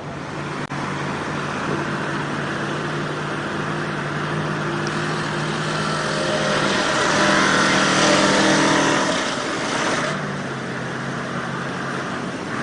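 Vehicle engine running under steady load, then revving harder for a couple of seconds about two-thirds of the way in before easing back.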